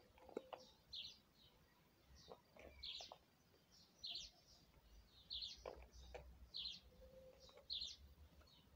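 Faint bird chirping: short high chirps repeated every half second to a second, with a few soft taps and clicks.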